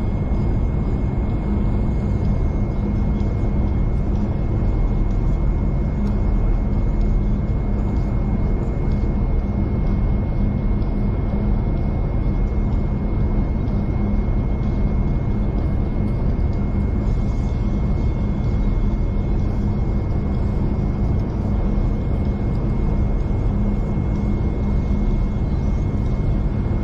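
Steady running noise of a V/Line diesel passenger train heard from inside the carriage: a continuous low rumble from the wheels and running gear, with a steady hum and a thin high whine over it.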